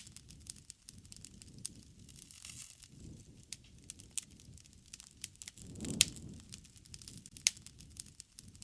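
Wood fire crackling, with scattered sharp pops over a soft low rustle of the flames. The loudest pops come right at the start, about six seconds in and about a second and a half later; the low rustle swells around the six-second pop.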